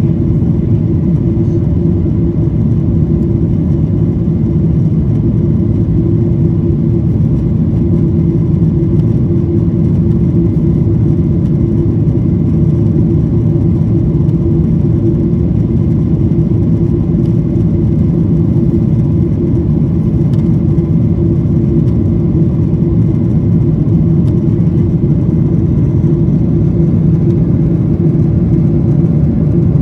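Airplane's steady low engine drone, unchanging throughout, with a constant hum under a dull rumble.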